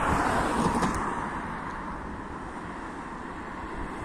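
Renfe Civia series 464 electric train passing, a steady rushing rolling noise that is loudest at the start and eases off after about a second.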